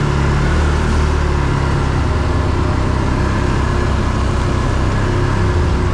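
Quad bike (ATV) engine running under way, steady and loud; its note shifts lower and rougher about two seconds in as the load or throttle changes.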